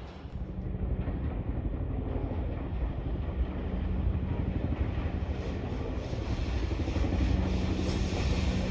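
Tobu Line electric train running through the station, a rumble of wheels on rail with a steady motor hum, growing gradually louder as it comes closer.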